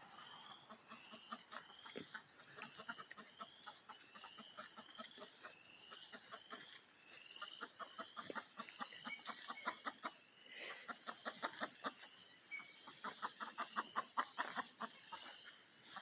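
Hens clucking in quick strings of short notes, getting louder and denser in the second half, over a faint high rising call repeated again and again.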